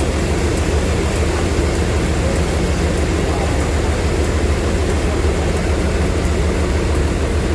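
Sawmill machinery running with a steady, loud low drone that holds unchanged throughout.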